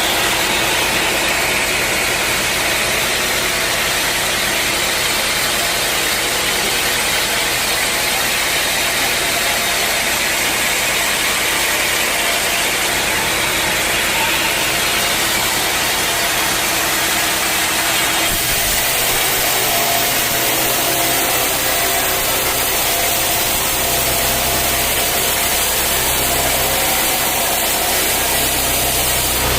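Sawmill machinery running steadily with a loud, even noise; its low hum changes pitch about two-thirds of the way through.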